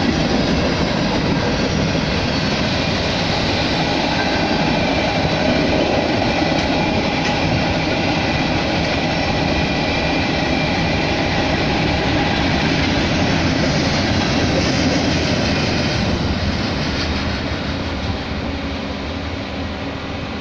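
Freight train cars, mostly tank cars, rolling past with a steady rumble of wheels on rail. The sound eases off in the last few seconds as the end of the train goes by.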